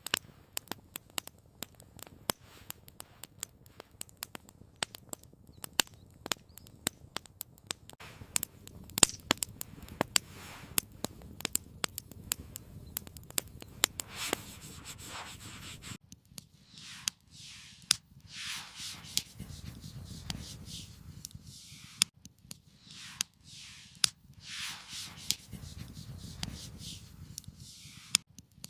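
Campfire crackling with many sharp pops and snaps. About halfway through the crackle thins and a run of rhythmic scraping strokes takes over, roughly one a second, each sliding down in pitch.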